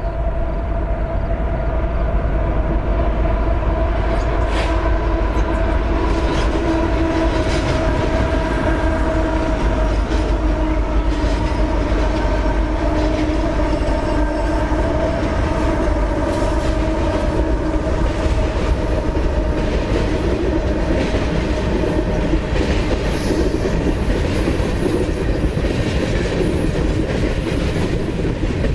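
Freight train rolling past with a steady low rumble and repeated clicks of wheels over rail joints; steady tones run through the first two-thirds and then fade.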